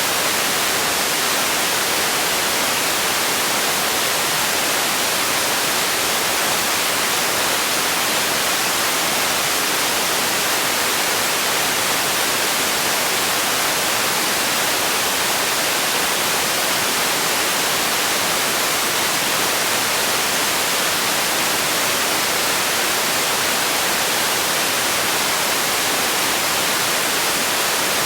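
Steady synthetic hiss-like noise, close to white noise, with most of its energy in the upper range and little low rumble, unchanging throughout.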